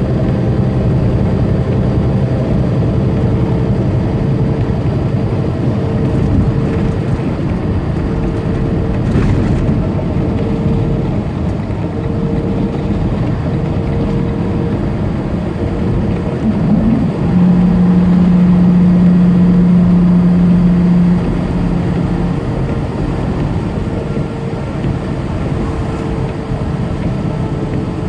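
Tractor-trailer driving at highway speed, heard from the cab: a steady diesel engine drone with road noise. A louder steady hum rises over it past the middle and holds for about four seconds.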